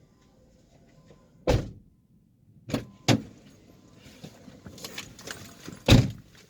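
Four sharp thumps and clunks at a car, the last and loudest near the end.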